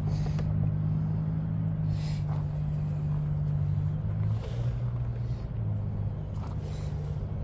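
Several short hisses of an aerosol brake-cleaner can spraying the oil drain plug, over a steady low hum.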